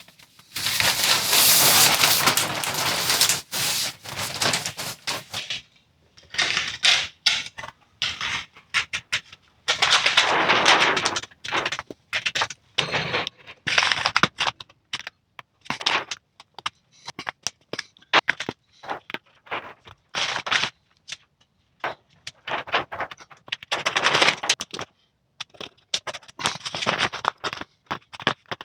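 Stiff clear plastic patterning sheet crackling and scraping in irregular bursts as it is handled and fitted over a convertible hood frame, loudest in the first few seconds.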